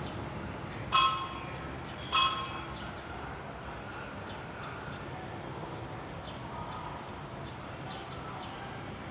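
Two sharp metallic clinks about a second apart, each ringing briefly, from metal parts or tools being handled, over steady background noise.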